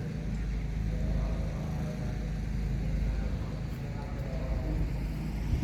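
Steady low rumble of outdoor background noise, with faint voices of people talking in the background.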